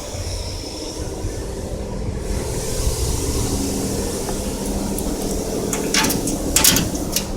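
Steady mechanical drone with a low hum from coin-operated car wash machinery, with a quick cluster of sharp clicks near the end.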